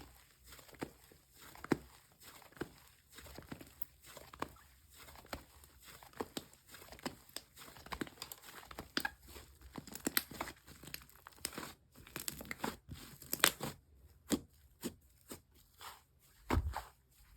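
Hands working slime: squishing and stretching it, with irregular crackling and popping clicks a few times a second, denser and louder for a few seconds past the middle.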